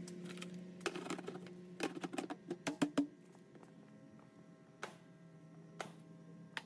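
Scattered sharp clicks and knocks of hands handling parts and tools, bunched in the first three seconds and then a few single ones, over a steady low hum.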